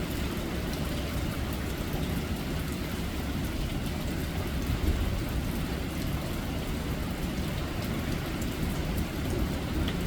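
Hurricane wind and heavy rain: a steady rushing noise with a heavy low rumble of wind buffeting the microphone, and scattered small ticks of rain.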